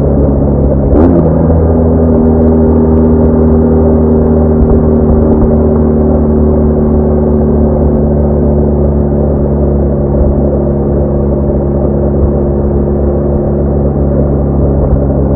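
BMW R1200R boxer-twin motorcycle engine running at a steady road speed, with a low rumble of wind and road noise. About a second in there is a short click and a quick jump in engine pitch, after which the note holds steady and eases slightly lower.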